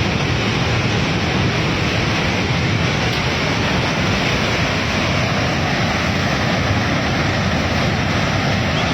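Flash-flood torrent rushing past: a loud, unbroken wash of churning water.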